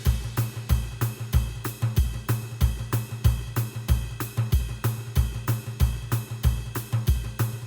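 Instrumental electronic keyboard music with a steady drum beat of kick drum, snare and hi-hat, about four hi-hat ticks a second.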